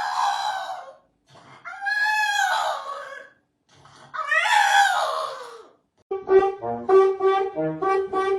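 A pet animal's three long, wavering cries, each rising and falling in pitch. About six seconds in, brass music with a bouncy rhythm of short repeated notes starts.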